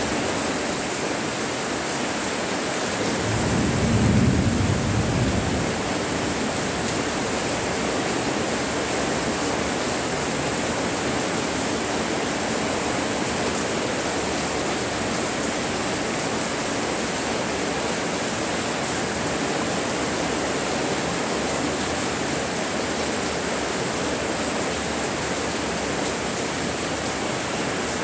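Steady, heavy monsoon rain falling. About four seconds in, a low rumble swells up under the rain and fades within two seconds.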